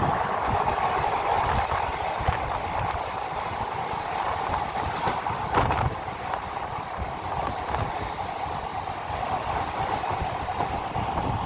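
Indian Railways passenger coach running at speed, heard at an open window: the steady rumble and rattle of wheels on the track. There is one sharper knock about five and a half seconds in.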